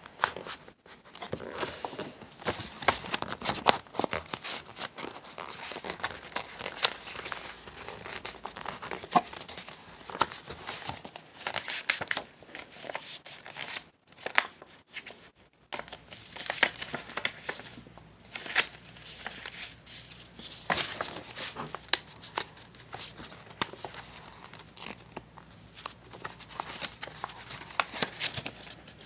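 A sheet of paper being handled and folded by hand, with crinkling rustles and many short, sharp crackles, stopping briefly now and then.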